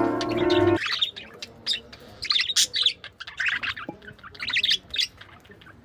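Pet birds chirping in quick, short calls, some harsher. Background music cuts off under a second in.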